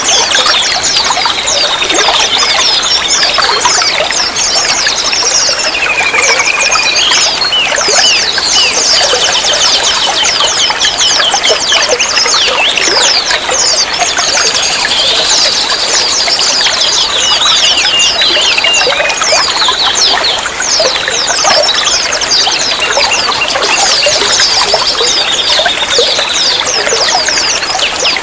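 Running water trickling and pouring steadily, with songbirds chirping and whistling over it throughout in quick high notes and short warbled phrases.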